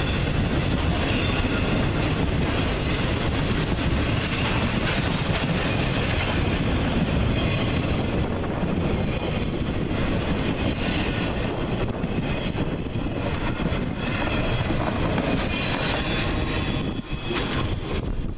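A train's cars rolling past with steady wheel-on-rail noise and a faint high wheel squeal; the noise drops off near the end.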